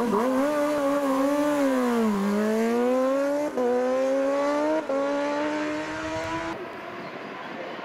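Superbike racing motorcycle engine under hard acceleration up the hill-climb course. The revs drop and climb again, then two quick upshifts break the rising pitch, and the engine fades as the bike pulls away.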